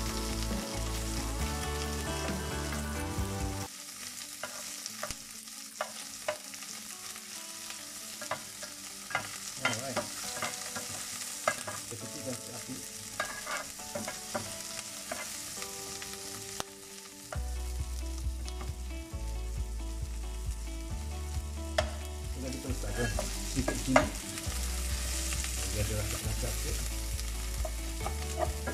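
Sliced onions and garlic sizzling in a little hot oil in a flat cast-iron pan, stirred with a metal spatula that scrapes and clicks against the pan. A low background hum sits underneath, cutting out from about four seconds in until about seventeen seconds in.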